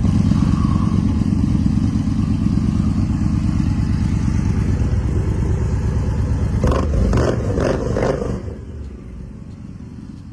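Motorcycle engine running with an even low pulse. A few seconds before the end it gives a few quick blips of the throttle, then the sound fades away.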